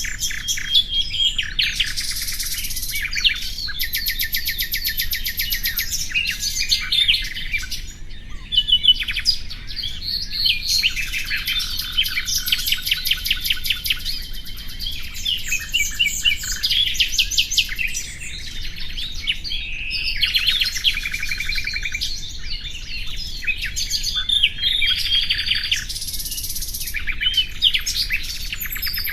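Common nightingale singing: varied phrases of fast repeated notes, trills and whistles, one after another with short pauses between them.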